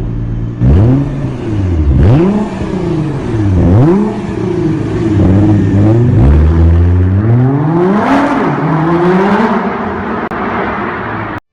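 Porsche 911 Targa GTS flat-six running through an Akrapovic exhaust, idling and then blipped through a series of quick revs that rise and fall, ending with a longer held rev before it settles back toward idle. The sound cuts off suddenly near the end.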